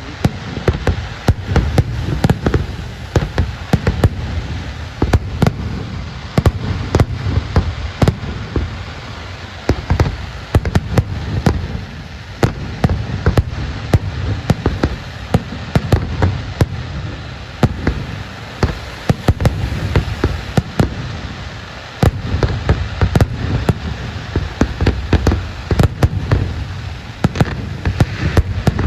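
Aerial fireworks display: a dense run of sharp bangs and crackles, several a second, over a low rumble of booming shells, with brief lulls.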